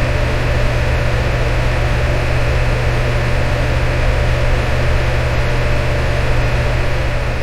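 Electric fan running steadily: a constant airy whoosh over a low motor hum.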